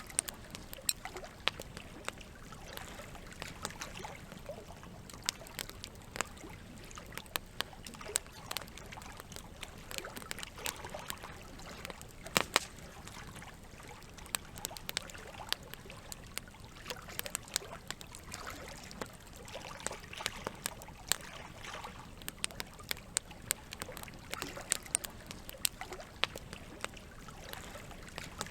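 Campfire crackling with irregular sharp pops, the loudest a double pop about halfway through, over a steady bed of running water.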